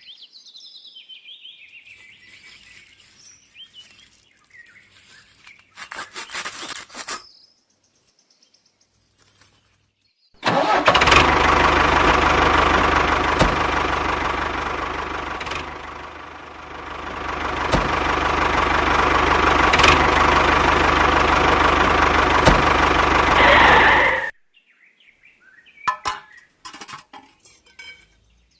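A small motor of a home-built miniature machine runs loudly and steadily for about fourteen seconds, sagging in level for a moment midway, then cuts off suddenly. A few faint chirps and a short burst of noise come before it, and some short clicks after.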